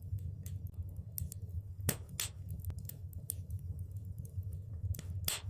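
Wood fire crackling in a fireplace: irregular sharp pops and snaps over a steady low rumble of burning, with louder pops about two seconds in and near the end.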